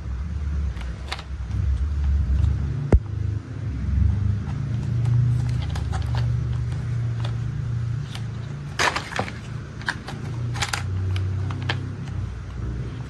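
Low engine-like rumble, shifting in pitch, with a sharp click about three seconds in and a cluster of clicks and clatters between about nine and eleven seconds.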